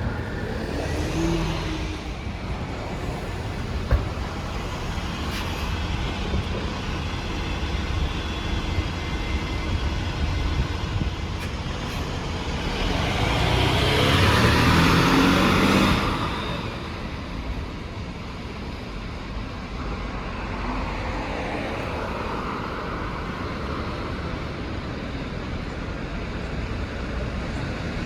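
Street traffic with a steady low rumble. A heavy vehicle grows loud about halfway through, then drops away quickly.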